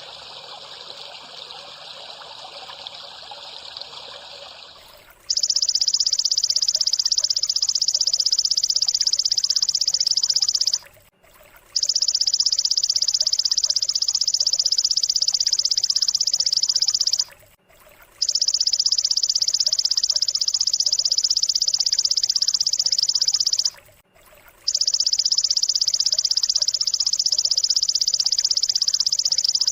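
Trickling water for the first five seconds, then a high buzzing trill from a bird-training recording, played in loud bouts of about five and a half seconds with a gap of about a second between them.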